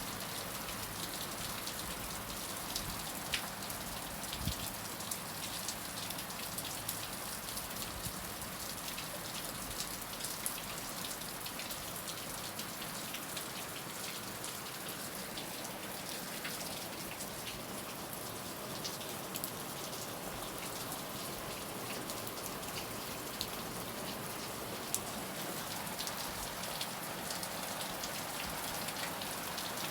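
Heavy rain falling steadily, a dense even hiss with scattered sharp drop impacts.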